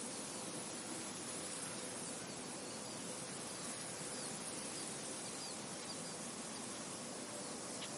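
Soft steady wind blowing through a field, with faint, scattered high bird chirps.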